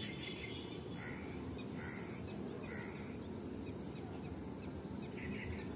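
Birds giving short calls, roughly one a second with a gap before the last, over a steady low background rumble.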